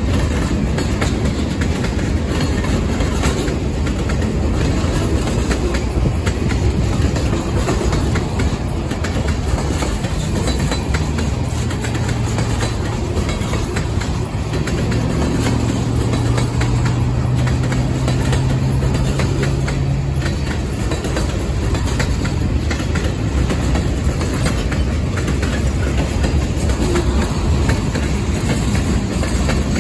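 CSX freight train of boxcars rolling past: a steady, loud rumble of steel wheels on the rails, with faint clicks through it. A low steady tone joins in a little before halfway and fades out about two-thirds of the way through.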